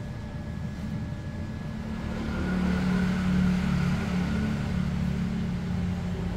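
A motor running steadily, growing louder and changing pitch about two seconds in.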